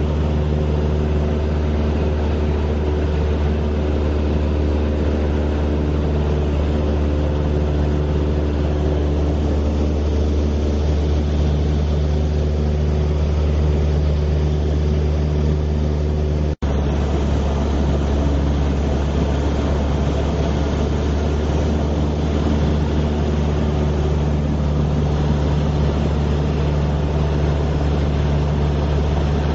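Steady engine and rotor drone of a news helicopter, a constant low hum with several steady tones. It cuts out for an instant about sixteen seconds in.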